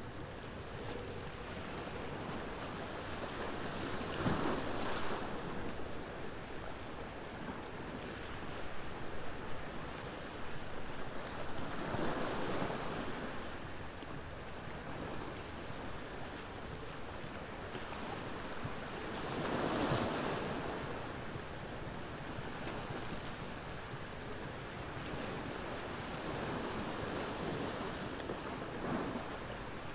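Ocean waves washing onto the shore, a surge swelling and fading about every eight seconds over a steady wash of surf, with a wood bonfire crackling faintly alongside.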